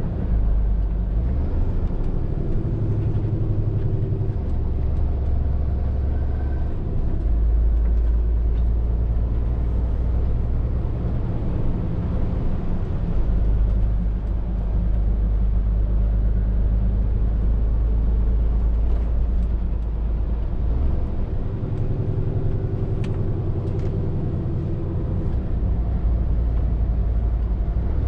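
Scania R450 lorry's six-cylinder diesel engine running under way: a steady low drone whose pitch shifts several times as engine speed changes.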